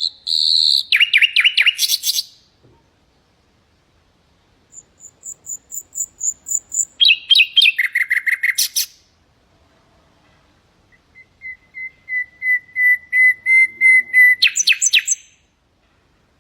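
Common nightingale singing three separate phrases, each built of rapid repeated notes. The second phrase opens with thin, high repeated notes. The third opens with a long run of piping notes on one pitch that swell in loudness, then breaks into a fast trill.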